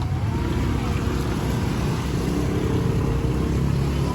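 Street traffic: a vehicle engine running close by, a steady low rumble with a faint pitched hum over it.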